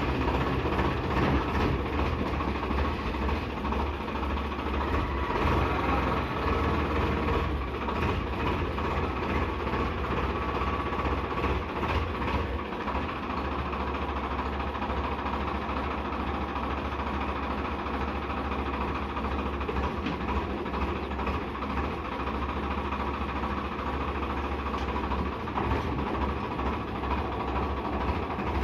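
Heavy machine's engine running steadily with a deep rumble, from a bulldozer or a tractor.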